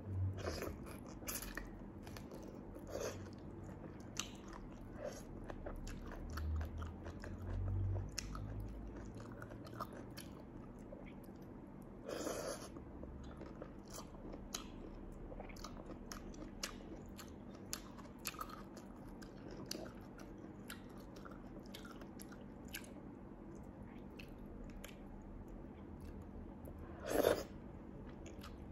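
Close-miked eating: chewing and wet mouth clicks from soft boiled cabbage and bimba sea-snail meat in chili sauce, with two louder bursts, one near the middle and one near the end.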